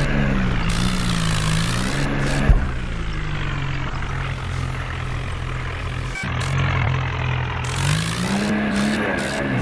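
Tractor engine running under load, its pitch dipping and rising several times, with one sharp knock about two and a half seconds in.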